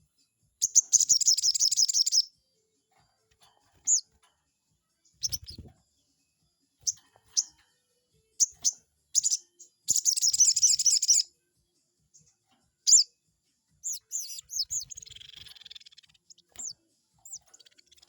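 Sogon bird calling: sharp, high-pitched single chirps and two rapid rattling trills, each over a second long, one near the start and one in the middle. It is a lure call, used to rile rival sogon birds into answering.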